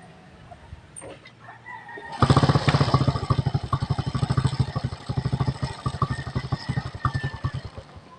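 Motorcycle engine running, low at first and then much louder from about two seconds in, with a fast, even firing beat that rises and dips.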